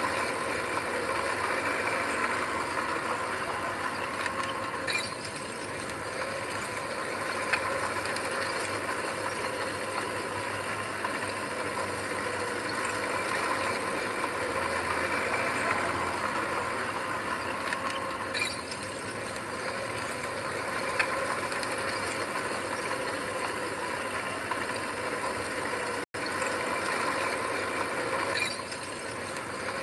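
Diesel engine of heavy earthmoving machinery running steadily, with scattered light clanks and rattles of metal parts. The sound cuts out for an instant near the end.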